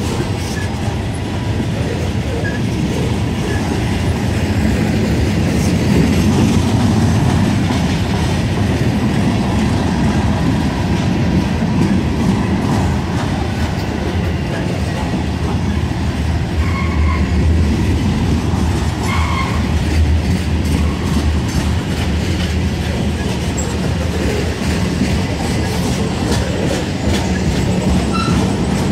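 Freight cars of a mixed freight train rolling steadily past close by: a continuous rumble of steel wheels on rail, with clickety-clack as the wheels cross rail joints. A couple of brief wheel squeals come a little past the middle.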